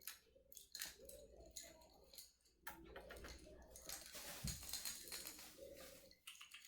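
Faint clicking and scuffling from young puppies moving about on a hard floor and eating small treats.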